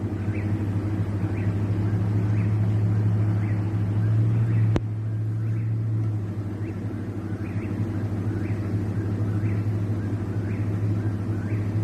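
Eastern whip-poor-will repeating its song over and over, about once a second, faint under a loud steady low hum. A single sharp click comes a little under five seconds in.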